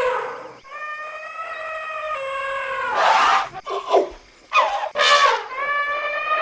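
Elephants trumpeting. A long held trumpet call is followed by a few shorter, harsher blasts that fall in pitch, with a brief pause among them, and then another long held call.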